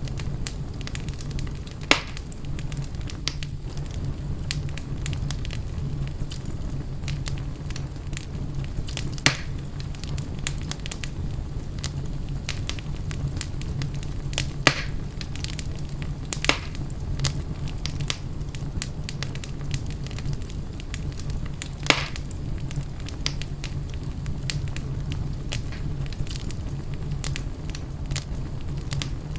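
Fireplace fire crackling steadily over a low, constant rumble. About five sharper pops stand out, spread through.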